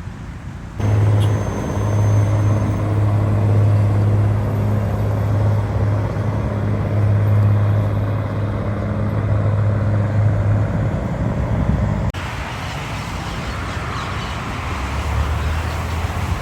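Diesel train's engine running with a steady low drone over the rumble of the passing train. The drone starts abruptly about a second in and stops after about ten seconds.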